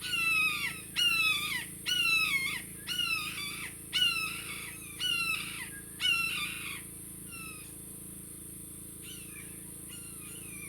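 Blue jays mobbing a red-tailed hawk, giving harsh, downslurred jeer calls about once a second. Seven loud calls come in a row, then fainter scattered calls for the last few seconds.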